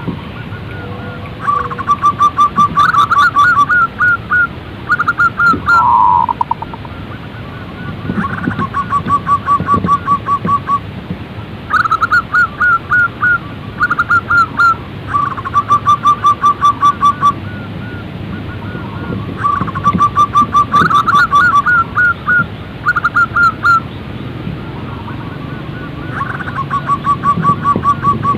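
Zebra dove (perkutut) calling over and over in phrases of rapid staccato cooing notes, each lasting a second to a few seconds, with short pauses between them.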